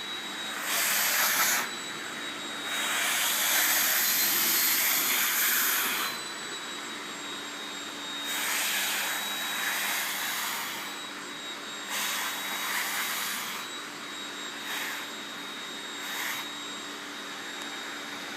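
Vacuum cleaner running steadily with a high whine, its rushing-air hiss surging louder several times, the longest surge lasting about three seconds.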